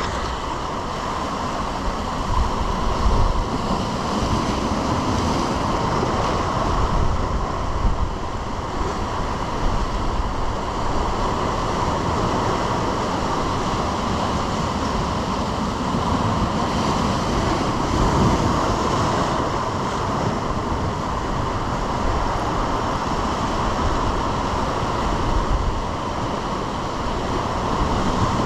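Ocean surf washing steadily along a rocky shore, with wind gusting on the microphone.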